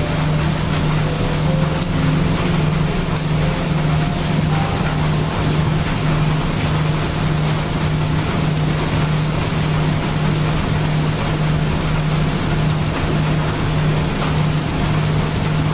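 Heavy rain mixed with brown noise: a steady, dense hiss over a deep rumble, unchanging throughout.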